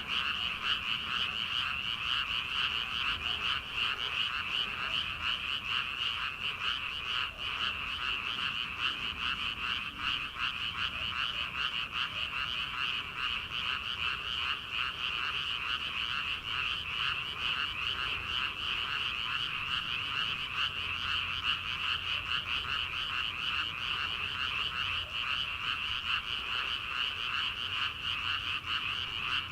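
Dense chorus of many frogs calling together, a steady mass of rapid, overlapping croaks with no breaks.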